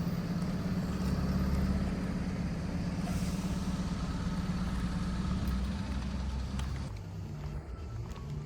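A vehicle's engine running, a steady low rumble that drops away about seven seconds in.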